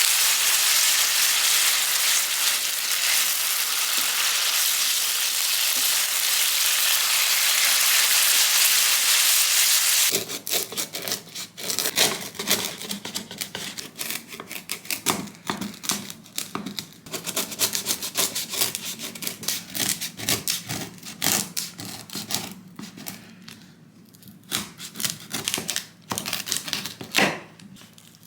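Food sizzling in a frying pan, a steady loud hiss, for about ten seconds. It cuts off suddenly, and irregular light taps and clicks follow.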